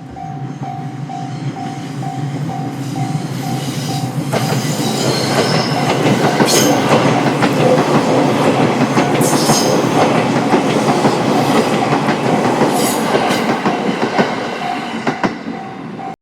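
A Japanese level-crossing alarm rings in a steady run of repeating electronic tones as a JR Togane Line train passes over the crossing. The train's rumble builds to a loud pass, with wheel clicks over the rail joints and a few brief high squeals. The alarm tones come through clearly again near the end.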